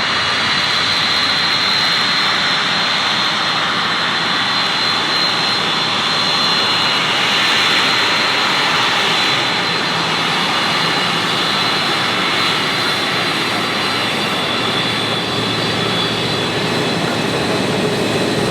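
Jet airliner engines running with a steady roar and a thin high whine, swelling slightly about halfway through.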